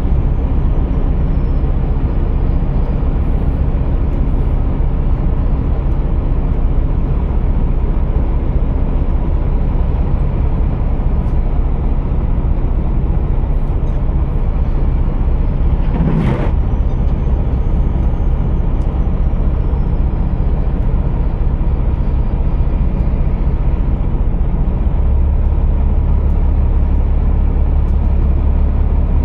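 Scania R480 diesel truck running with a steady low drone. There is one brief sharp sound about halfway through, and the low hum grows stronger near the end.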